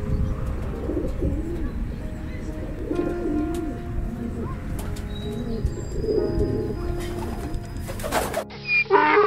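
A bird cooing repeatedly in low, warbling calls. Near the end it cuts off abruptly and a louder, different sound begins.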